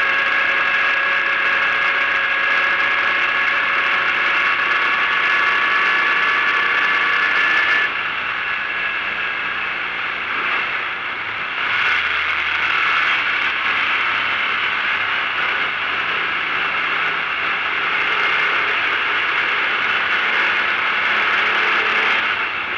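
Volkswagen Fusca race car's air-cooled flat-four engine running hard, heard from inside the cabin, its pitch slowly climbing. About eight seconds in, the engine note drops and goes quieter for a few seconds, then picks up strongly again.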